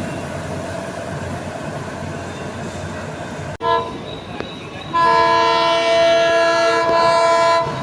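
Train rumbling past with steady running noise. After an abrupt cut, an Indian Railways locomotive horn sounds a short blast, then a long steady blast of several tones held for nearly three seconds.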